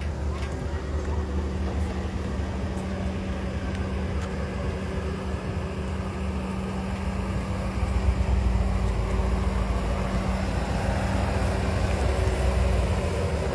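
Cadillac Escalade SUV engine running at low speed as it drives up, a steady low hum that grows louder about eight seconds in as the vehicle comes close.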